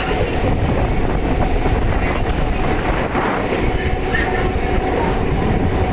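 Electric multiple unit (EMU) suburban train running at speed, heard on board: a steady rumble of wheels on the track with faint steady tones above it.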